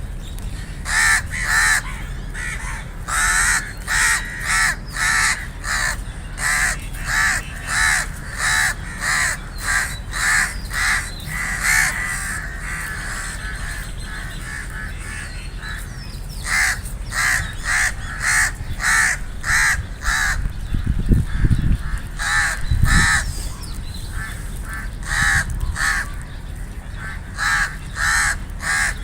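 Crows cawing over and over in steady runs of about two harsh caws a second, with a lull of a few seconds near the middle. A couple of low thumps come about two-thirds of the way through.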